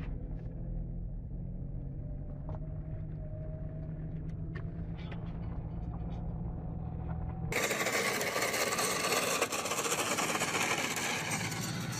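Steady low rumble of a car on the road, heard from inside the vehicle, with a faint slowly rising hum and a few light clicks. About seven and a half seconds in it cuts abruptly to louder, hissier road and traffic noise.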